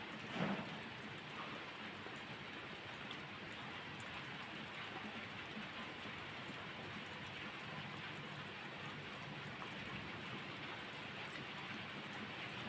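Steady rain falling, an even hiss, with one brief louder pop about half a second in.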